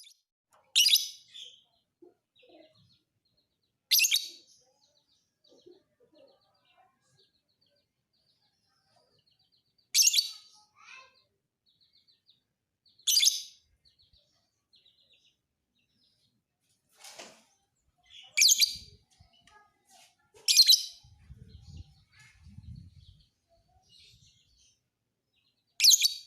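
Lovebird singing in loud, shrill bursts of chirping, about seven short bursts a few seconds apart, with faint twittering between them.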